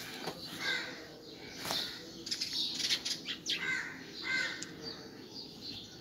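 Faint birds chirping a few short times, with light rustling and handling noise.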